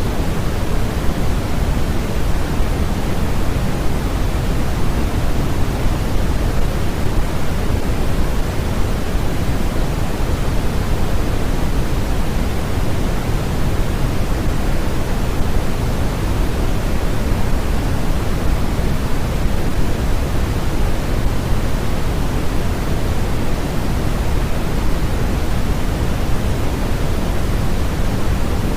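Steady, unchanging electronically generated noise of the kind sold as white noise for sleep, a constant hiss weighted toward the low end, closer to pink noise.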